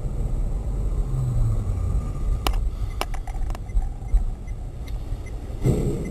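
A car's low engine and road rumble, as picked up by a dashcam, with a few sharp clicks in the middle and a brief louder burst near the end.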